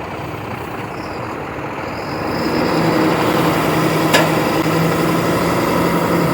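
BharatBenz 12-wheel truck's diesel engine running, rising about two and a half seconds in to a louder, higher steady speed. A single sharp click comes about four seconds in.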